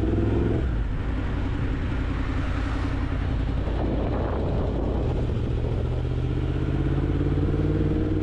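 Motorcycle engine running steadily while riding, over a wash of wind and road noise. The engine's pitch drops about half a second in and then holds steady.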